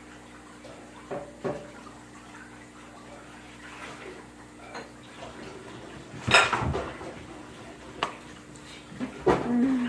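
Containers and utensils being handled on a table: scattered light knocks and clinks, with a louder clatter about six seconds in and another near the end.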